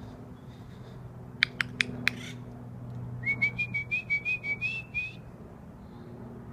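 A bird calling from a bare tree: four sharp, clicky notes about a second and a half in, then a rapid run of about a dozen short whistled notes, some six a second, lasting about two seconds.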